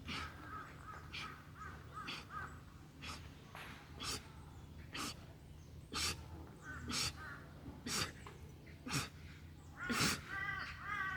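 A man breathing out sharply in short puffs, about once a second and steady, with each push-up repetition.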